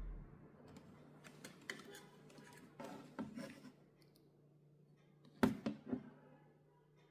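Small clicks, taps and rustles of tools and parts being handled on a workbench, with a quick run of louder knocks about five and a half seconds in, over a faint steady hum.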